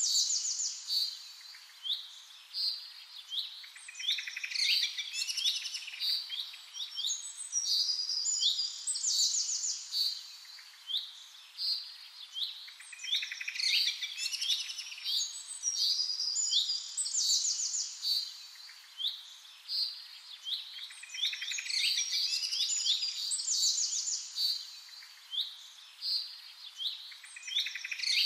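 Birds chirping and trilling in quick, high-pitched calls, in a busy pattern that recurs every few seconds.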